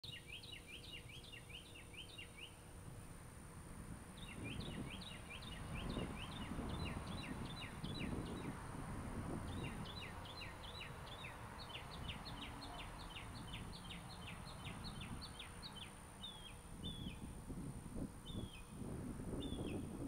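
A small bird singing: three long runs of rapid, short, high chirps that each slide downward, then a few single chirps near the end, over a low rumbling noise.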